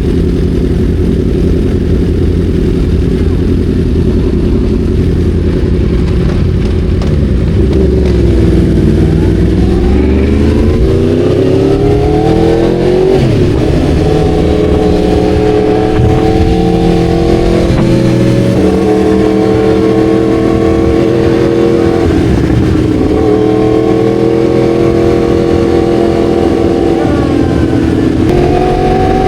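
Sport motorcycle engine running steadily, then accelerating from about eight seconds in with rising revs, and shifting up several times, with the pitch dropping briefly at each shift.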